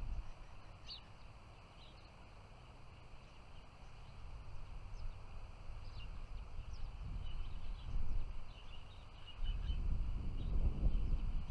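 Short, high chirps of small songbirds scattered through, over a low rumbling noise that grows louder near the end.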